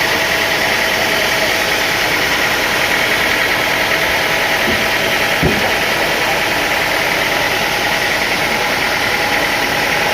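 Sawmill machinery running steadily, a constant mechanical drone with a high whine over it, and one short knock about halfway through.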